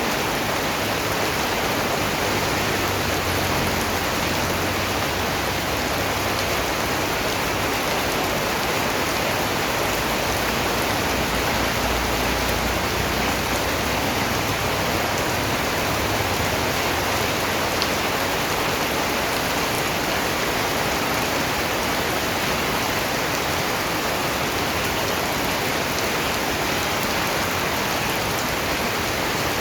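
Steady rain falling, a dense, even hiss of drops on surfaces that never lets up.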